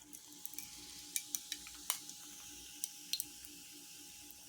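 Coca-Cola fizzing in a frozen glass mug: scattered small crackles and ticks of carbonation over a faint steady hum.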